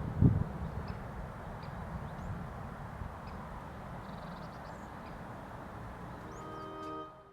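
Outdoor field recording: a steady low rumble with a couple of low thumps at the start, and a few faint, short bird calls high above it. Music fades in near the end.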